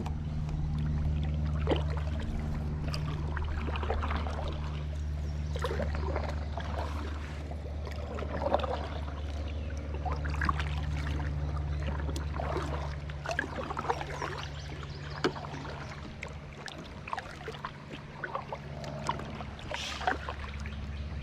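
Kayak paddling: irregular paddle splashes and water drips over a steady low hum.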